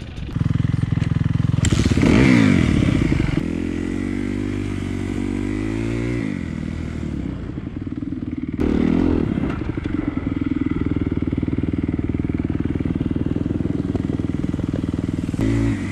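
Dirt bike engine running under load on a trail ride, revving up and easing off several times as the rider works the throttle and gears, with a steady engine note in between.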